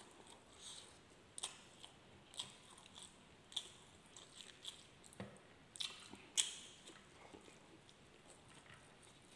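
Faint, wet chewing and lip-smacking of a person eating milkfish sisig and rice with his hands, with sharp mouth clicks about once a second, loudest about six seconds in.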